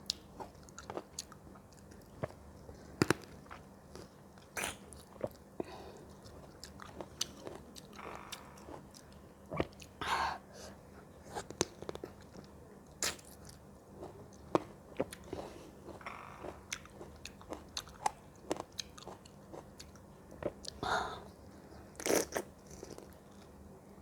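Close-up chewing and biting of fresh fruit: irregular crisp crunches and clicks, with a few longer, wetter chewing sounds in between.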